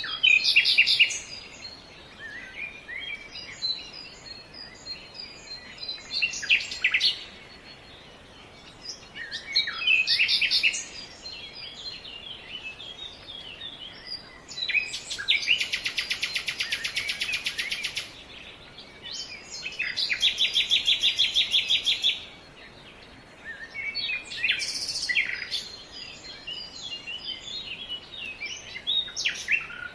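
Several birds chirping and calling over a faint steady background hiss, with short chirps and quick phrases throughout. Two long rapid buzzy trills stand out in the middle, one lasting about three seconds and another about two seconds.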